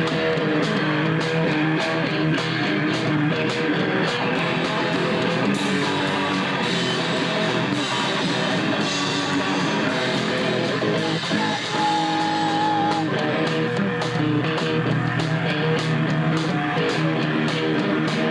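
Live rock band playing loud and steady: strummed electric guitar and bass over regular drum hits.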